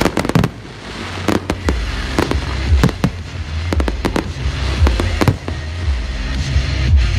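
Fireworks going off: many sharp bangs and cracks at irregular intervals, with bass-heavy music playing underneath in the second half.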